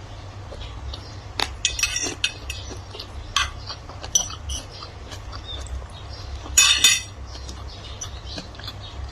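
Utensils clinking against dishes while eating: scattered sharp clinks, a quick run of them about two seconds in and the loudest rattle about seven seconds in, over a steady low hum.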